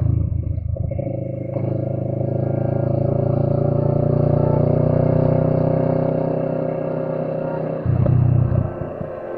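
Motorcycle engine running on the move, its pitch rising gently for a few seconds and then easing back. A brief louder surge comes about eight seconds in.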